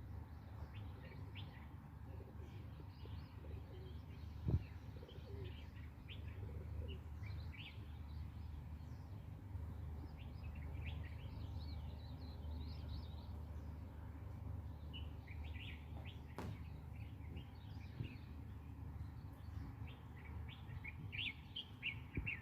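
Small birds chirping on and off over a low steady rumble, with one sharp knock about four and a half seconds in.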